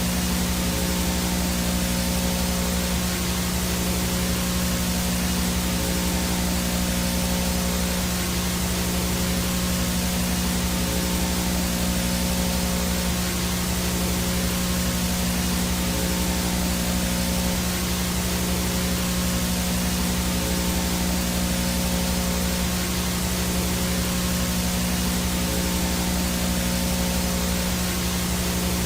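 VHS static from a blank tape or no-signal picture: a steady white-noise hiss with a low, steady electrical hum underneath and a few faint steady tones.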